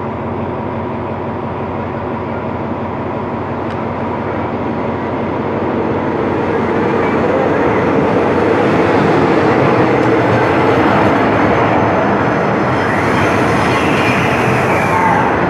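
SRT Sprinter express, a Class 158 diesel multiple unit, running into the station: engine and wheel-on-rail noise grows steadily louder as the train approaches and draws alongside. Near the end a higher whine rises and falls over the rumble.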